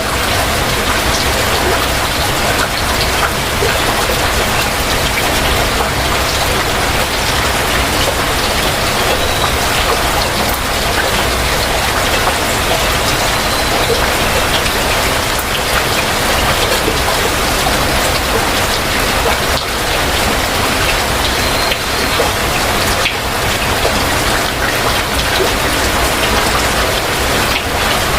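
Heavy rain falling steadily, a dense even hiss with many single drops ticking through it.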